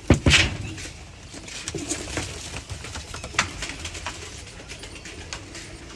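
Pigeons cooing softly amid scattered clicks and scuffling, with two loud knocks just at the start.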